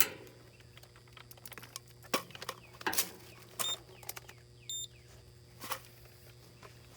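Clicks and taps of a removed AC run capacitor and meter leads being handled, with two short electronic beeps about halfway through, a second apart, as a multimeter is set up to test the capacitor. A steady low hum runs underneath.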